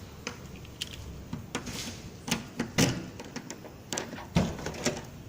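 Irregular clicks and knocks, with louder thumps a little under three seconds in and again near the end.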